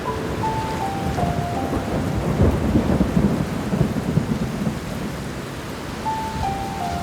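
Steady rain with a rumble of thunder swelling about two and a half seconds in and fading by four seconds. A few soft piano notes step downward at the start and again near the end.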